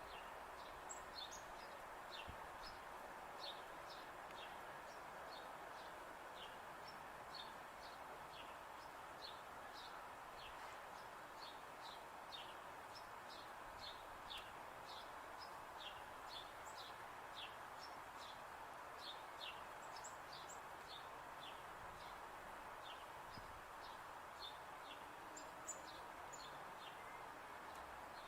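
Birds calling faintly: a steady run of short, high, downward-sweeping chirps, two or three a second, over a constant background hiss.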